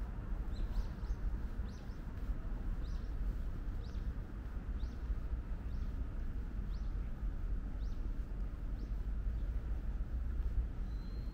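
A bird chirping: short high calls about once a second, then one longer even whistle near the end, over a steady low rumble.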